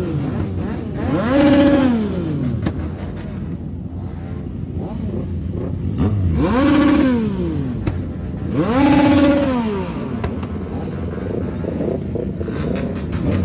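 Motorcycle engine revved hard and let fall back three times, each rev climbing quickly, holding briefly at the top and dropping back, between idle.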